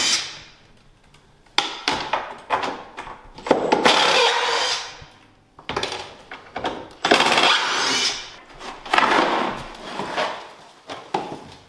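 Cordless drill-driver running in about four short bursts, each a second or two long, backing out drywall screws from the stair treads.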